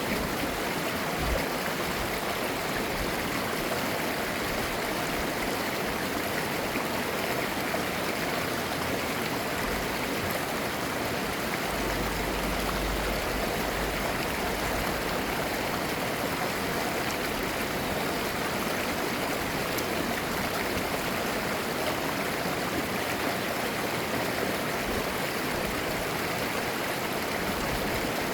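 A clear mountain stream flowing steadily over rocks, with a babbling rush of water. A low rumble rises briefly about twelve seconds in.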